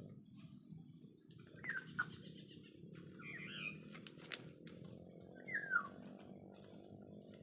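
Black-naped oriole calls: three short falling calls a second or two apart, with a sharp click near the middle, over faint steady background music.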